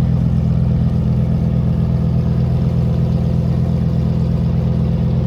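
Lamborghini Huracán STO's V10 engine idling, loud and steady, with no revving.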